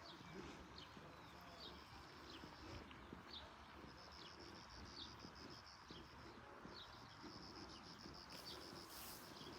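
Faint rural ambience: small birds giving short, repeated chirps, and an insect's pulsing high trill that starts about four seconds in and runs for several seconds.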